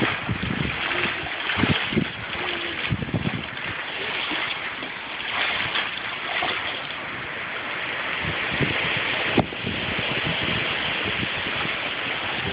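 Rain falling steadily, a dense hiss, with frequent low thumps on the phone's microphone and a sharp click about nine seconds in.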